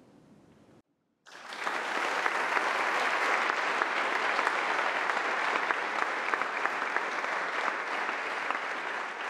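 Audience applauding. The clapping starts suddenly about a second in, after a short gap, and carries on steadily.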